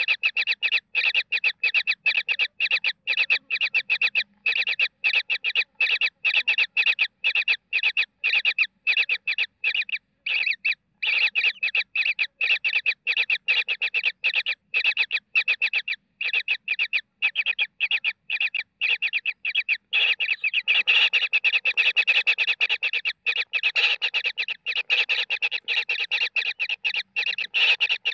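Baby kingfisher calling over and over, a fast string of short calls at about three a second with no pause. The calls grow denser and louder about twenty seconds in.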